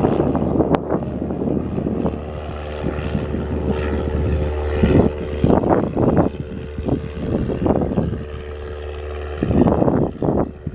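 Cessna 172 Skyhawk's piston engine and propeller running steadily, with irregular swells of rushing noise over the steady drone.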